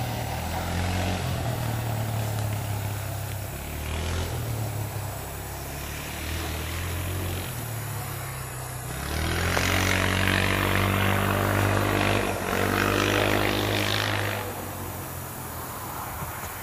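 Wind gusting through trees over a low steady engine hum. About nine seconds in a vehicle's engine grows louder and rises in pitch as it accelerates past, then drops away near the end.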